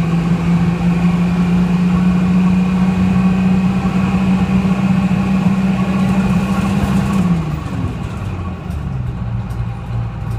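Detroit Diesel 6V71 two-stroke diesel of a GMC New Look bus running under load, its note climbing slowly, then falling sharply to a lower pitch about seven seconds in as the sound gets quieter.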